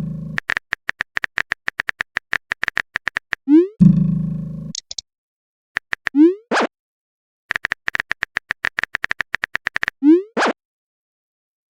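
Phone messaging sound effects: runs of rapid keyboard tap clicks as messages are typed. Each run is broken by a short rising 'message sent' blip. After the blips come a brief low buzz, near the start and about four seconds in, and a short hiss, about six and ten seconds in.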